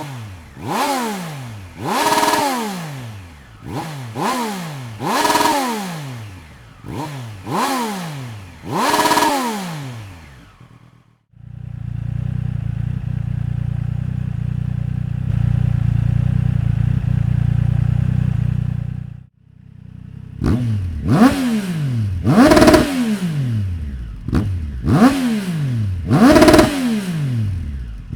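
Triumph Street Triple 765 RS inline three-cylinder engine free-revving through an aftermarket exhaust: about seven quick throttle blips, each rising sharply and falling back. Then it holds a steady, unchanging note for about eight seconds before another run of sharp blips near the end.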